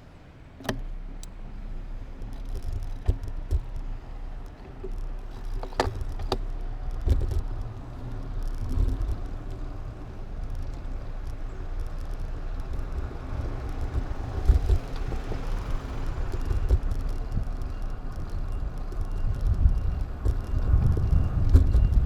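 Riding noise picked up by a mounted action camera: a low rumble of wind and road that builds louder toward the end. There is a sharp click under a second in and two knocks around six seconds in.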